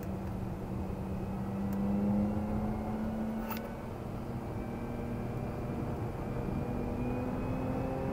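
Jaguar XE S's supercharged 3.0-litre V6 heard from inside the cabin under way, its note holding steady and then climbing slowly as the car accelerates, over tyre and road rumble. A brief click about three and a half seconds in.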